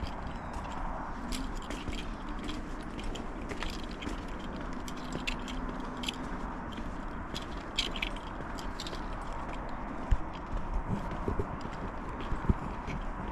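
Footsteps of people walking, a run of irregular short scuffs and taps, over a steady hiss.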